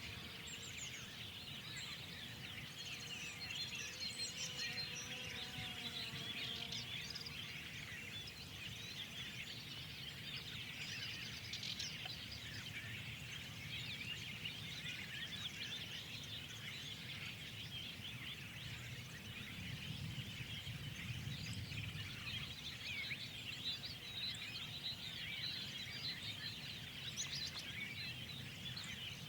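A dense chorus of many small birds chirping over one another without a break, with a low rumble underneath that swells about two-thirds of the way through.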